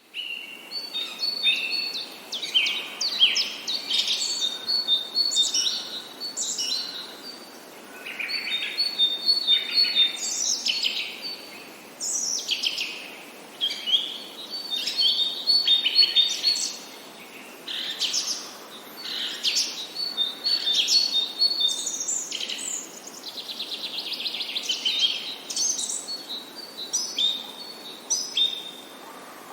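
Birds singing: repeated high, quick phrases of chirps, sweeping notes and short steady whistles, each phrase lasting a second or two with brief pauses between, and a fast rattling trill about three-quarters of the way through.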